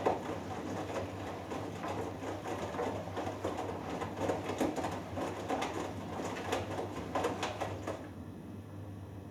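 Hoover Dynamic Next washing machine drum tumbling a wet cotton load, with water and laundry sloshing and knocking over a steady motor hum. The tumbling stops about eight seconds in as the drum pauses, leaving the hum.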